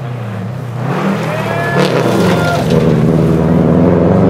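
Rally car engine at high revs, getting louder as the car approaches on a gravel stage, its pitch rising and falling.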